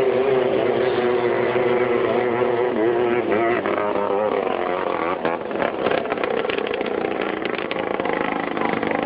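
Loud drag-racing boat engine running, its pitch shifting about three to four seconds in, then a fast rattling from about five seconds.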